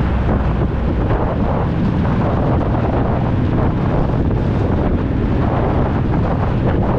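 Honda Deauville 650's V-twin engine running steadily through an aftermarket Dominator exhaust, nearly buried under heavy wind noise on the microphone.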